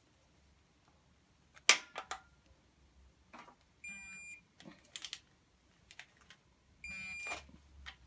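Tools clacking against metal, loudest about two seconds in, then two short electronic beeps from a digital torque wrench set to foot-pounds while the timing-belt tensioner pulley bolt is brought up to 45 foot-pounds.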